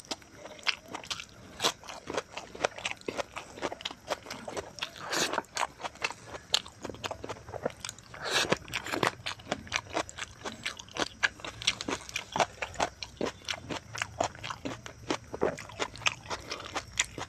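Close-miked eating: chewing and crunching mouthfuls of rice with pork rib curry, a dense run of quick crackly clicks, with louder bites about five and eight seconds in.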